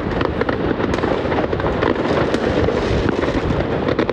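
New Year's fireworks and firecrackers going off all around without pause: a dense, continuous crackle of overlapping bangs and pops.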